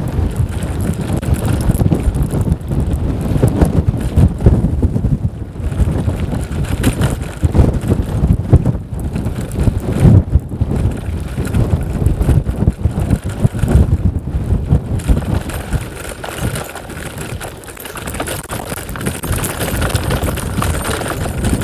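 Strong wind buffeting the microphone of a camera on a moving bicycle, a gusty low rumble that swells and drops, easing somewhat in the second half.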